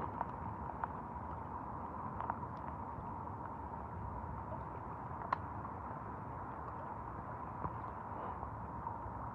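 Steady hiss of falling rain, with a few sharp ticks scattered through it.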